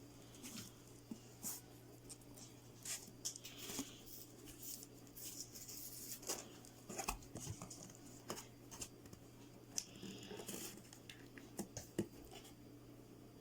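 Quiet handling noises of craft pieces being glued together by hand: scattered light clicks, taps and rustles, over a faint steady low hum.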